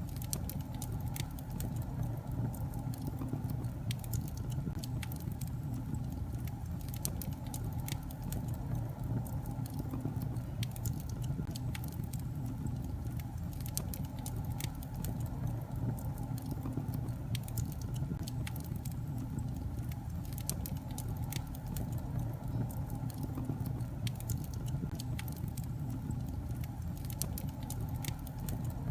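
Wood fire burning in a fireplace, with a steady low rumble of flames and frequent sharp crackles and pops from the logs.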